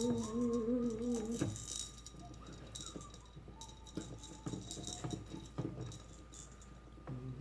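A person hums a wavering note for about the first second and a half. Then come light, scattered rattling and clicking of the plastic parts of a Maracas chihuahua toy being handled during reassembly.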